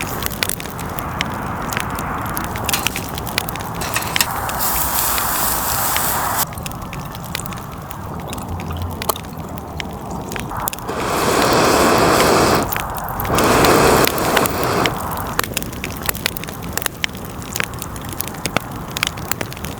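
Wood campfire crackling and popping with many sharp snaps, with two stretches of louder rushing noise a little past the middle.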